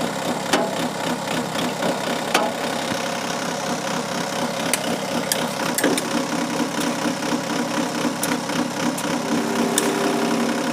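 John Deere tractor's diesel engine running steadily, with a few sharp clicks and knocks. About halfway through, a steady engine note comes up and holds.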